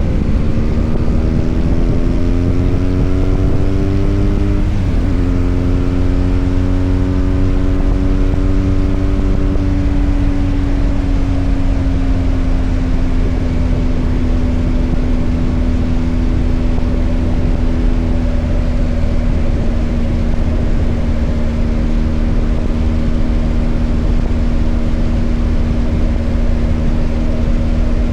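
BMW R1250 GS Adventure's boxer-twin engine pulling hard with its pitch rising for about five seconds, dropping sharply at an upshift, then settling into steady cruising with a slowly falling pitch, over a constant low wind rumble.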